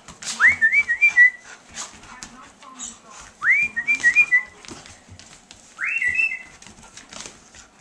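A pet bird whistling the same short phrase three times, each a quick rising note followed by a few short stepped notes, with clicks and knocks from dogs playing on a hard floor.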